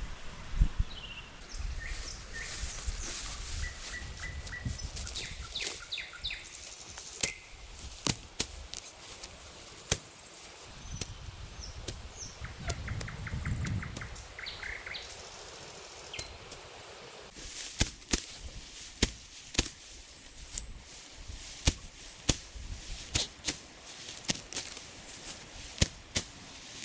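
Forest birds singing and trilling, with repeated short sharp knocks that come more often in the second half.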